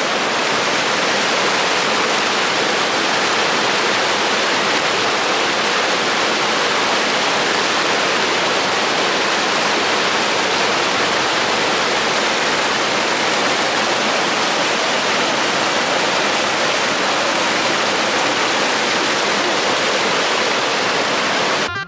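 Steady, loud rushing water, like a waterfall, that cuts off abruptly near the end.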